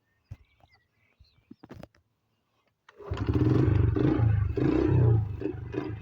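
Honda CRF70 dirt bike's small four-stroke single-cylinder engine catching about three seconds in after a few faint clicks and knocks, then running unevenly, rising and falling, during a cold-start attempt.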